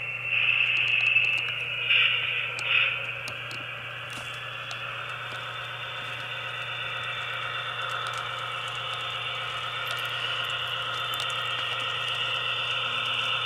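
QSI sound decoder in an Atlas HO-scale SD35 model locomotive playing EMD diesel sounds through its small speaker, tinny and thin. Three louder blasts come near the start, one long and two short, then a steady engine drone.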